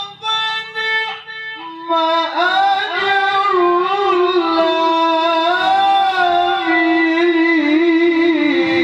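A male Quran reciter's voice in tilawah style, drawing out a vowel into a long ornamented melisma. A few short broken notes give way, about two seconds in, to a loud held note that wavers up and down in pitch.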